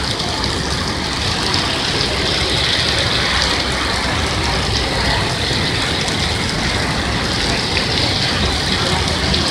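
Heavy rain falling steadily on a street, with tyres hissing on the wet road as cars drive past.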